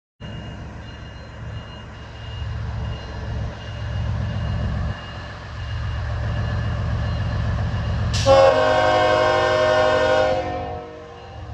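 Diesel freight locomotives rumbling low and steady. About 8 seconds in, a locomotive air horn blows one long chord of several tones for about two seconds.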